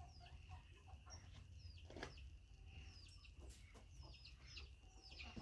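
A flock of chickens heard faintly, clucking softly and giving many short, high, falling chirps, over a low steady rumble, with a single sharp click about two seconds in.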